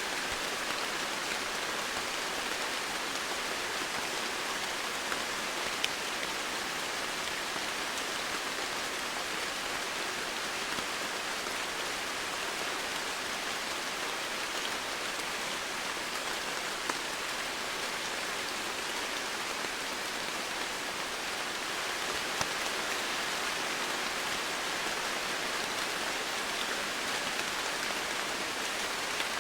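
Steady rain falling: an even hiss with a few separate drop ticks scattered through it.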